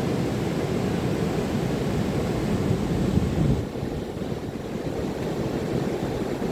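Ocean surf breaking on a beach, a dense rushing noise strongest in the low range, with wind buffeting the microphone; it eases off a little past halfway.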